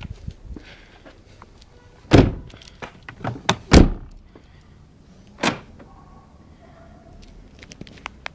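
Fiat Grande Punto car doors shutting: a few heavy thuds, two of them close together, with lighter clicks between.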